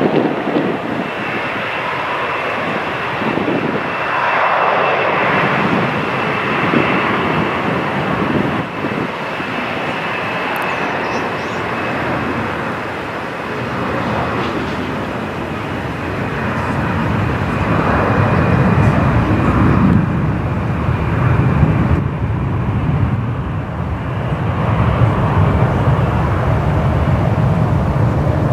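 Twin jet engines of an Airbus A330-200 running at takeoff power: a broad jet roar with a steady high whine, and a low rumble that grows louder about halfway through.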